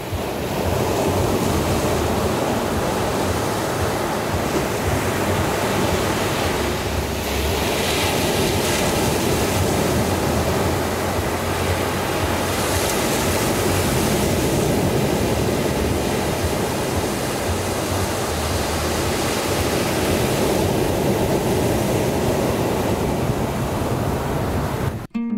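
Steady rushing noise of ocean surf, swelling a couple of times, which cuts off suddenly near the end.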